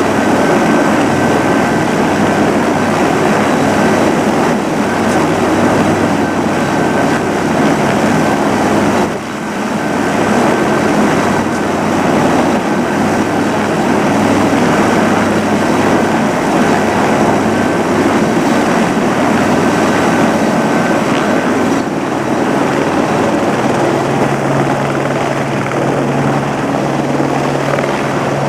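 Helicopter turbine and rotor running loud and steady. The level dips briefly about nine seconds in, and near the end the low hum shifts a little higher.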